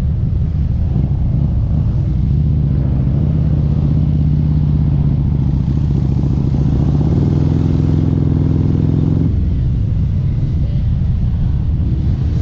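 Harley-Davidson V-twin motorcycle running loud on an aftermarket exhaust, cruising under steady throttle. Its note climbs slightly about seven seconds in, then eases off as the throttle is rolled back about nine seconds in.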